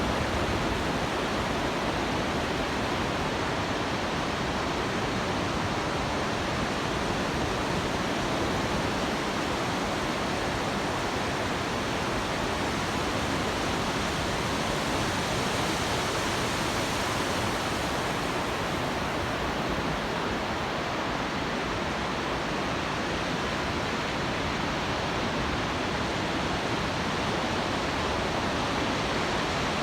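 Heavy Pacific Ocean surf breaking on the beach, a continuous, steady rush of noise with no separate wave crashes standing out.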